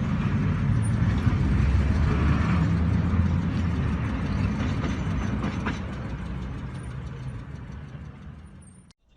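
Motor vehicle driving, a steady low engine and road rumble that slowly fades and then cuts off near the end.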